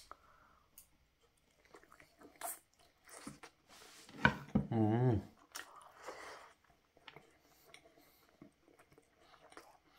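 Close-up mouth sounds of a man biting into and chewing a glazed barbecue chicken leg: a sharp bite at the start, then faint, intermittent moist chewing. About five seconds in there is a short hummed vocal sound.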